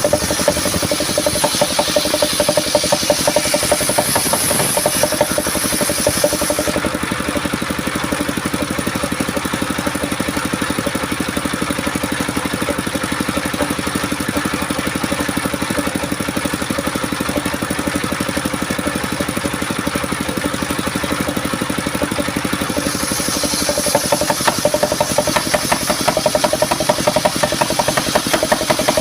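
Homemade engine-driven sawmill running steadily, sawing coconut-palm wood. A high hiss runs for roughly the first seven seconds, drops away, and returns about 23 seconds in, over the engine's steady fast pulse.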